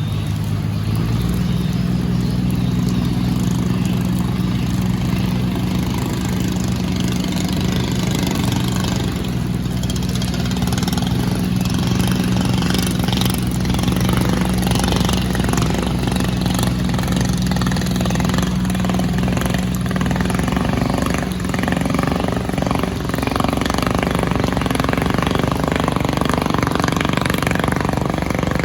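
Fishing boat's engine running steadily, its pitch stepping up slightly about a second in.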